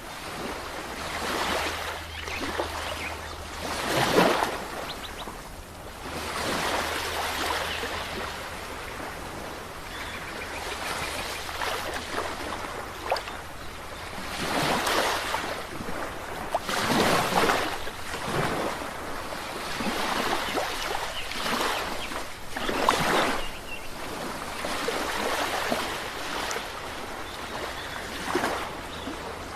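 Sea waves breaking and washing on the shore, one surge after another every few seconds, the strongest about four seconds in and again near the middle.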